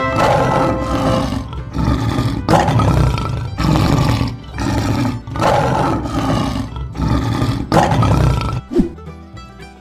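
Lion roar sound effect, a string of loud roars one after another, over light children's background music; the roaring stops shortly before the end.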